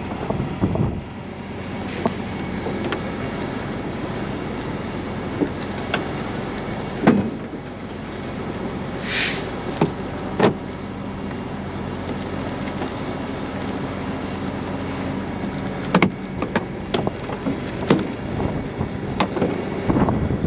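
Heavy truck diesel engine running steadily, with scattered metal clanks and knocks and a short burst of hissing air about nine seconds in.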